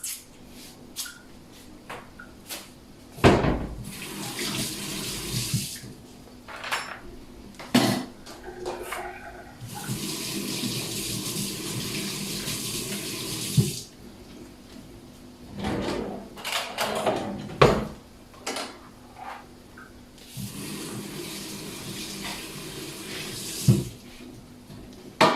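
Kitchen tap running into a sink in three separate spells, the middle one the longest, with sharp knocks and clatters of kitchen things being handled in between.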